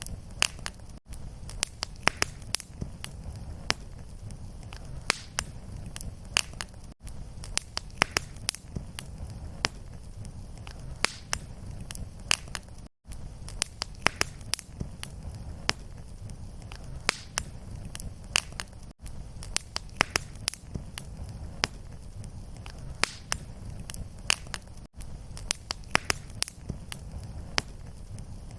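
Wood fire crackling and popping in a fireplace: irregular sharp snaps over a low steady rumble. Brief gaps about every six seconds where the looped recording restarts.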